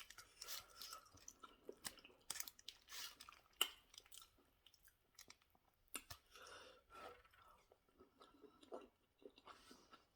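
Close-miked chewing of a meal of roasted catfish and fried potato: irregular wet chewing with many short, sharp clicks scattered throughout.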